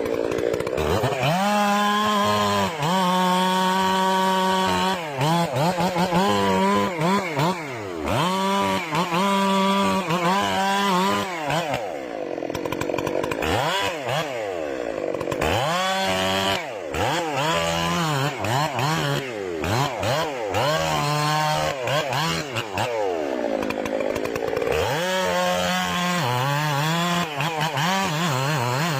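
Chainsaw running hard through wood, its engine pitch swooping down and back up again and again as the cut loads and frees the chain.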